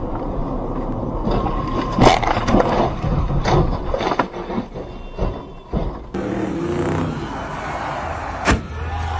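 Car and road noise picked up by dashcams, broken by several sharp bangs of vehicle impacts, the loudest near the end.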